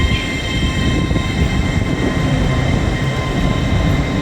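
Passenger train running alongside the station platform: a steady, loud low rumble with a faint whine.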